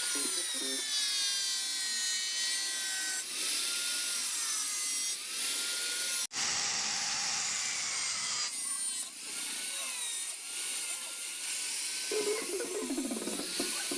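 Small handheld power tool grinding or cutting, a steady hiss with a motor whine that dips and recovers in pitch as it bites into the work. There is an abrupt break about six seconds in, then the grinding resumes.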